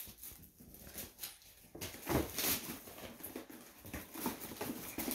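Wrapping paper and packaging rustling and crinkling in irregular short bursts as presents are unwrapped and handled.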